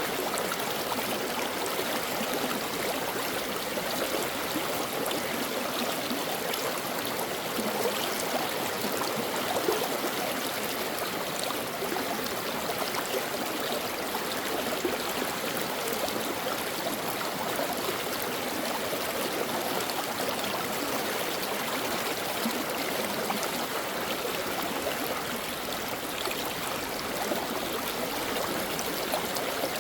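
Stream water flowing, a steady babbling rush with small irregular splashes.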